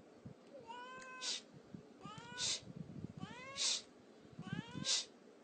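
A cat meowing four times, about a second apart, each call ending in a short breathy hiss.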